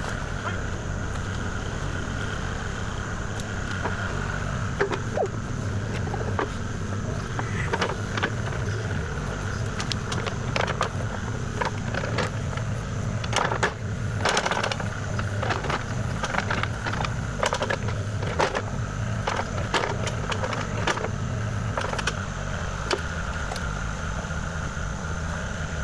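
Kubota KX040 compact excavator's diesel engine running steadily with a high hydraulic whine, while the machine works. Scattered sharp knocks and scrapes, denser in the middle, come from the machine working the ground.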